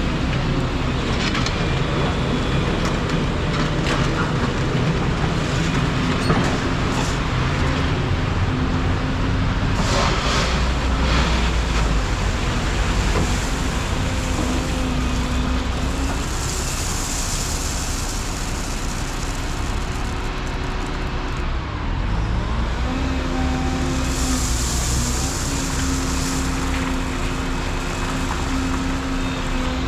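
Volvo 235EL excavator's diesel engine running under working load, with the hydraulic tone rising and falling as the machine moves. A few knocks come about six and ten seconds in, and two spells of high hissing come in the second half.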